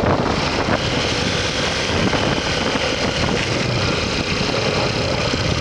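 Motorcycle under way: steady engine and road noise with wind rushing over the rider's microphone.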